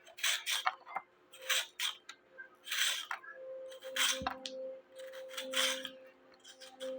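Close-up crunching of raw vegetables being bitten and chewed, in sharp crisp bursts about once a second, some in quick pairs. A faint steady tone runs underneath in the second half.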